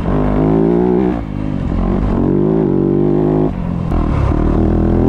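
Dirt bike engine running hard, its pitch climbing and falling as the throttle is worked, backing off briefly about a second in and again past the middle.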